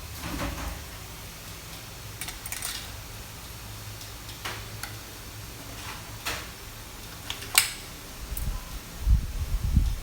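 Nipper sharpening machine's motor humming steadily, with short metallic clicks and clinks every second or two as the nippers are handled against it. Low knocks and bumps follow in the last two seconds.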